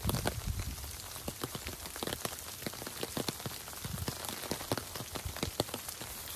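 Steady rain falling, a constant hiss with many distinct raindrops striking close by.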